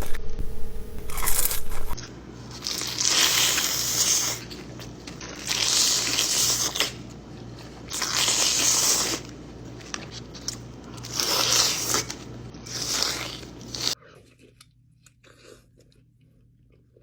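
Close-miked eating: loud crunching and chewing bites coming in bursts every two or three seconds, then an abrupt drop to faint small mouth and handling sounds near the end.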